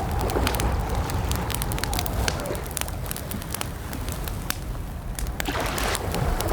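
Campfire crackling, with irregular sharp pops and snaps over a steady low rumble of burning wood. A faint wavering whistle-like tone comes and goes in the first half.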